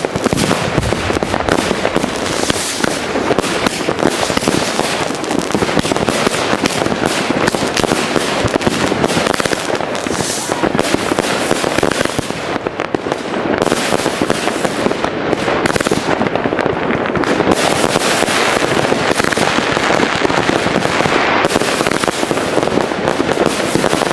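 Several consumer firework batteries (cakes) fired together in a linked chain: a loud, dense, unbroken barrage of many shots and bursts overlapping, with no pauses.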